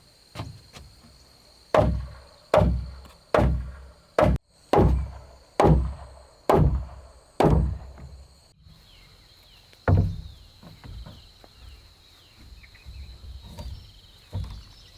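A tool striking wood in a steady series of heavy blows, about one a second, eight in a row. A single further blow comes a couple of seconds later, then fainter knocks.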